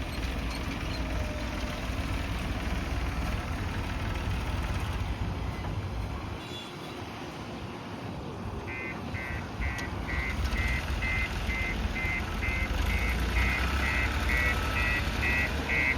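JCB backhoe loader's diesel engine running under work, easing off briefly near the middle and then growing louder. About halfway through, its reversing alarm starts beeping steadily, about two beeps a second, as the machine backs up.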